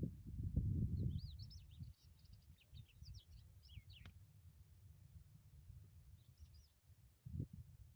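Small birds chirping in quick high twitters, a run of chirps from about one to four seconds in and a short burst later on, over a low rumble that is loudest in the first two seconds.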